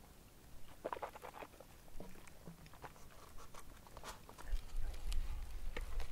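A person chewing crunchy food with the mouth close to the microphone: scattered small crackles and clicks, densest about a second in. A low rumble sets in about halfway through.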